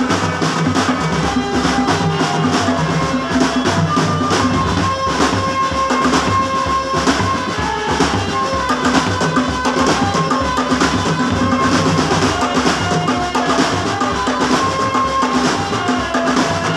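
Marching drum band playing: snare and bass drums keep a steady, busy beat under a melody of held notes.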